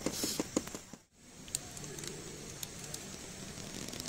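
Pancake batter being mixed in a bowl, the utensil clicking against the bowl several times. After a brief drop, a steady low hiss follows, with scattered faint ticks.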